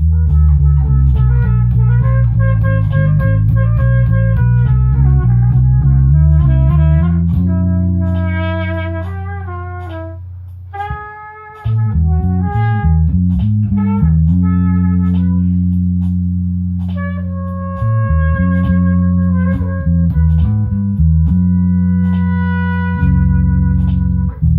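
Instrumental band jam: guitar chords over sustained bass notes. The playing thins out and drops back about ten seconds in, then comes back in full.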